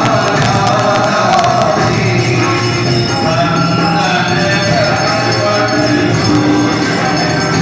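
Devotional singing by a group of voices with tambourine and jingling bells.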